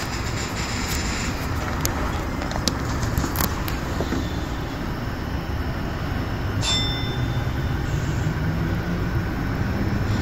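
Electric commuter train heard from the cab: a steady hum of the standing train with a few clicks, then near the end a low motor whine beginning to rise as it starts to pull away.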